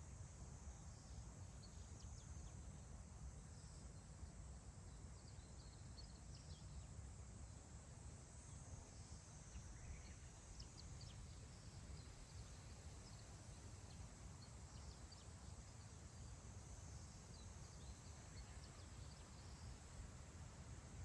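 Faint wind over open grassland: a steady low rumble with a soft high hiss. Scattered faint, short wild-bird chirps come through it.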